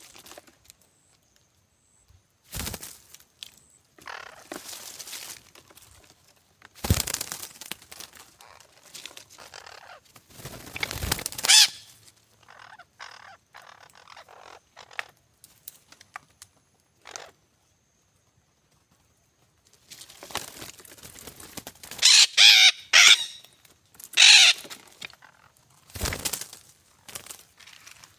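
Parrots giving harsh, squawking calls in a few loud clusters, the loudest about three-quarters of the way through, with short noisy rustles in between.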